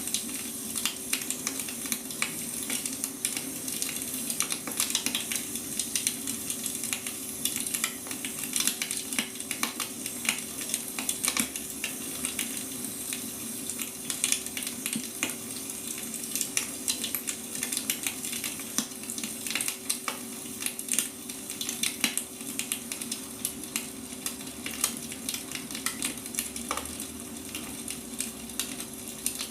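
Wood fire crackling: frequent irregular pops and snaps over a steady hiss, with a steady low hum underneath.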